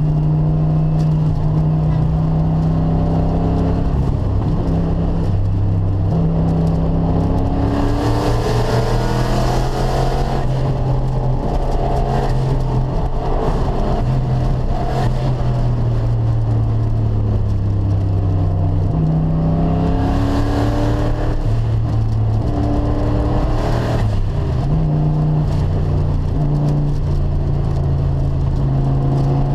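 Turbocharged 1995 Ford Mustang GT V8 heard from inside the cabin on a racetrack lap, its engine note climbing under throttle, dropping back and climbing again several times. There are two stretches of added hiss, about eight and twenty seconds in.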